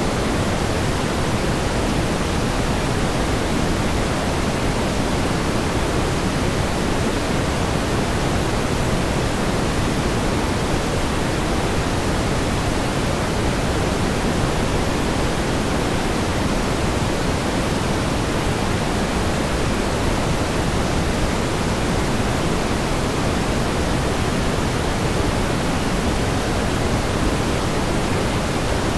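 Steady pink noise: an even, unchanging hiss weighted toward the low end, with no variation.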